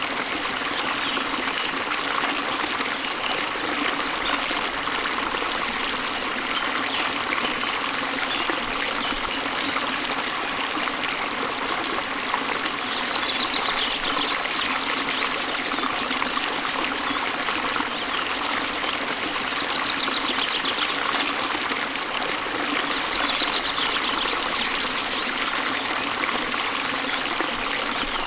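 Waterfall water running in a steady, even rush, with faint high bird trills a few times.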